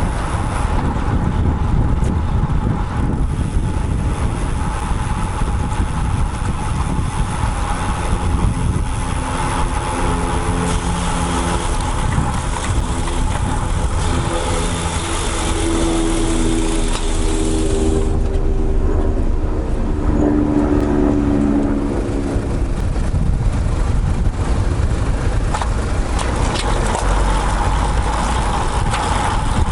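Wind and road noise on a bike-mounted action camera's microphone while riding a road bike in traffic. For several seconds in the middle, a motor vehicle's engine hum rises above the noise.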